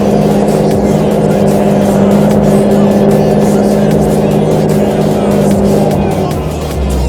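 Large tractor's diesel engine running steadily with a deep drone, its pitch dropping to a lower rumble near the end.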